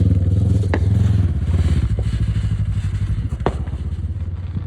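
Motorcycle engine running close by with a rapid low pulsing, easing off a little after about two seconds, with a few sharp clicks over it.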